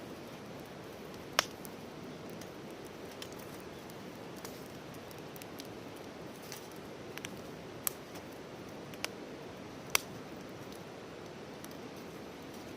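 Wood campfire burning with a steady low hiss, broken by sharp pops and crackles. The loudest pops come about a second and a half in and about ten seconds in.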